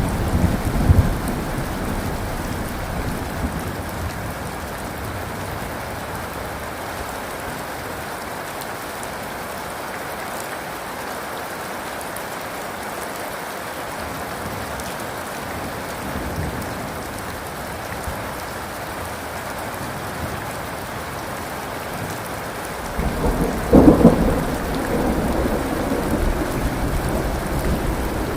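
Steady rain falling in a thunderstorm. A low rumble of thunder dies away over the first few seconds, and near the end a sudden loud thunderclap breaks in, followed by rolling rumble.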